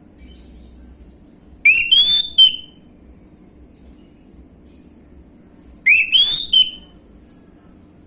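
Orange-headed thrush singing: two short phrases about four seconds apart, each of about three quick, loud whistled notes that rise in pitch.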